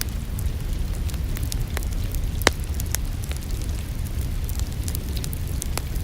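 Wood fire in a fireplace crackling, with irregular sharp snaps over a steady low rumble. One louder pop comes about two and a half seconds in.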